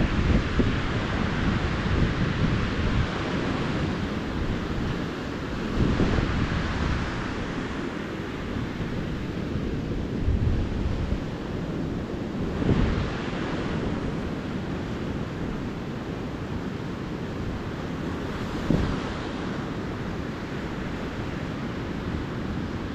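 Small ocean waves breaking and washing up on a sandy beach, the surf swelling every few seconds, with a low rumble of wind on the microphone.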